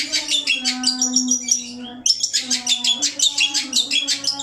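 Masteran recording of a songbird: rapid high chirps and trills at about five notes a second, running on with a short break about two seconds in. Underneath runs a steady low droning tone that shifts in pitch a few times.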